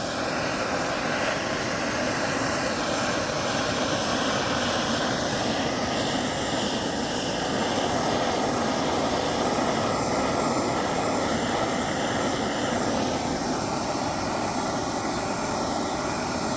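Torch flame blowing with a steady roar as it is played over a wooden board to scorch the surface.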